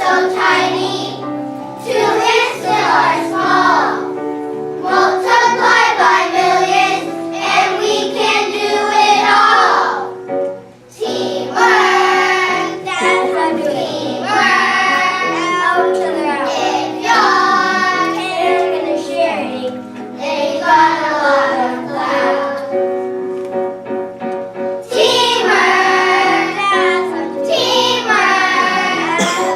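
A group of children singing together over musical accompaniment, with a brief break about ten seconds in.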